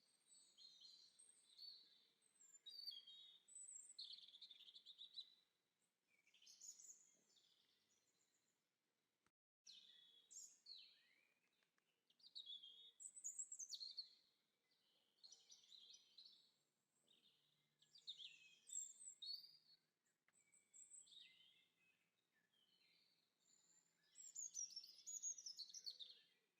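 Faint songbirds singing: a run of short, quick phrases of high chirps and trills with brief pauses between them.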